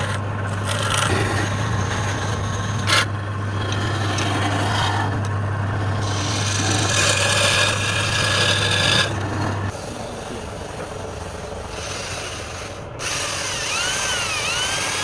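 A tool rasping and rubbing against wood over a steady motor hum; the hum cuts off about ten seconds in. Near the end a whine starts, rising and falling about once a second.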